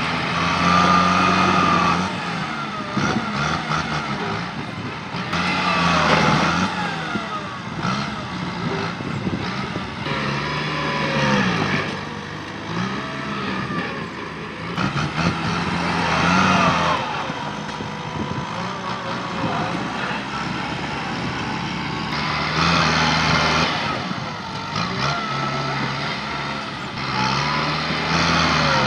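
Diesel tractor engine working hard as the tractor pushes through brush. Its note swells and eases about every five seconds, with crackling and whining on each push.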